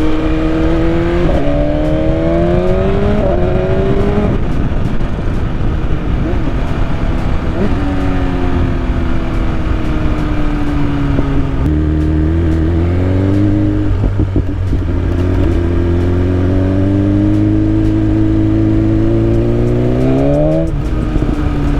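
BMW S1000RR's inline-four engine under way, its note climbing and falling with throttle and gear changes, under steady wind and road noise. The pitch jumps up twice in the first few seconds and drops about four seconds in. It sags through the middle, then steps up again and climbs steadily until near the end.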